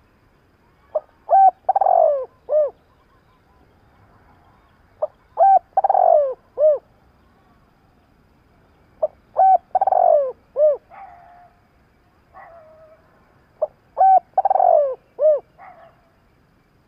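Spotted dove cooing: four phrases about four seconds apart, each a few short coos around one longer, falling, rolling coo. Fainter twittering calls come in between the third and fourth phrases.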